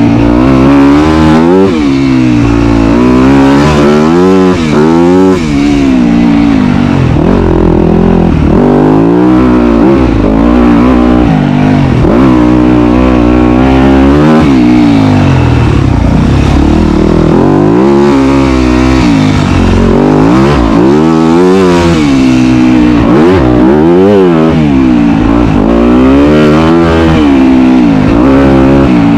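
Dirt bike engine being ridden hard, loud, its pitch climbing and dropping again and again every second or two as the throttle is opened and closed.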